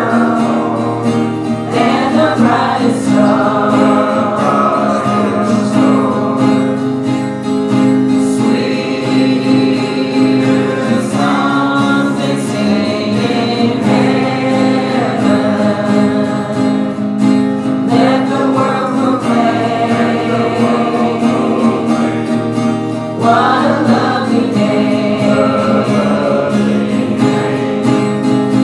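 A church congregation singing a hymn together, accompanied by guitar.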